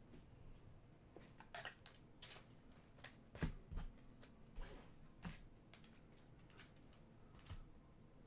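Panini Prizm basketball trading cards being handled: faint, irregular flicks and slides as cards are flipped through one by one.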